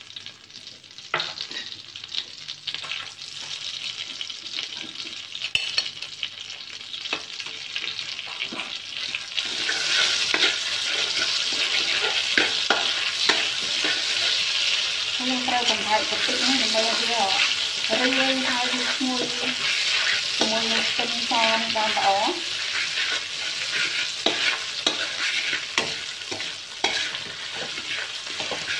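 Shrimp paste frying in hot oil in a wok, sizzling while a metal spatula scrapes and taps the pan as it is stirred and broken up. The sizzle grows louder about a third of the way in and stays strong.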